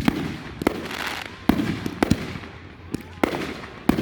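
Aerial fireworks going off in quick succession: about seven sharp bangs at uneven intervals, several trailed by a crackling hiss.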